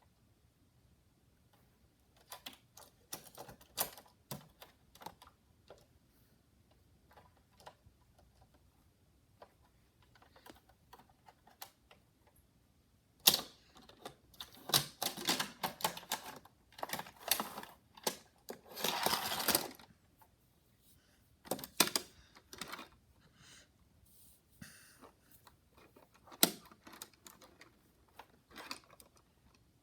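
Hot Wheels die-cast toy cars and plastic track pieces being handled: irregular small clicks and clatters, busiest in the middle, with a denser rattling stretch about two-thirds of the way through.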